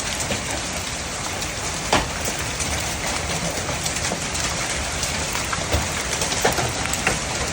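Steady downpour of rain and hail, with a few sharp knocks of hailstones striking, the strongest about two seconds in and several more near the end.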